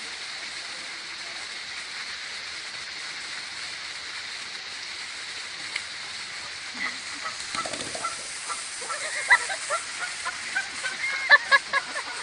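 A goose honking in short, repeated calls, starting about seven seconds in and coming faster and louder near the end, over a steady background hiss.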